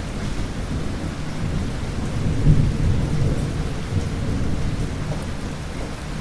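Thunder rumbling over steady rain, the rumble swelling to its loudest about two and a half seconds in, then slowly dying away.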